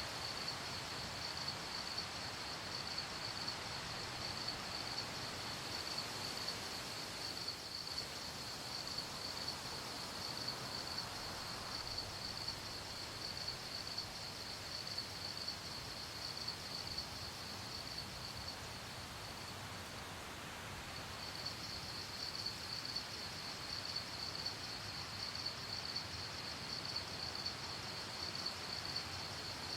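Crickets chirping in a steady, high, rapidly pulsing trill that drops out for a moment about two-thirds of the way through, over a soft even background hiss.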